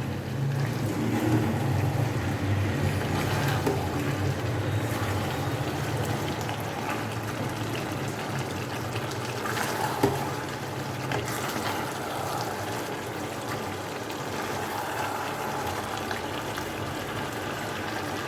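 Chicken curry sizzling and bubbling in the pan as the meat and masala are braised down (kosha) while the gravy dries, a steady sizzle.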